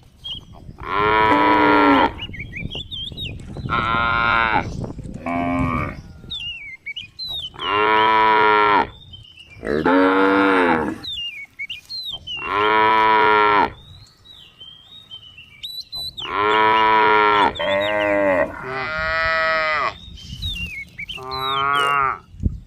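Cattle mooing over and over, about ten drawn-out calls of roughly a second each, some back to back, with short high chirps in the gaps between calls.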